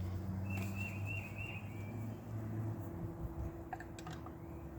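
Quiet outdoor background: a bird chirping a short series of wavering notes over a low steady hum, with a few faint clicks near the end.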